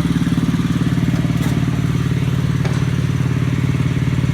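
Small garden-tractor engine idling steadily with a fast, even pulse, and a couple of faint clicks about a second and a half in and near the three-second mark.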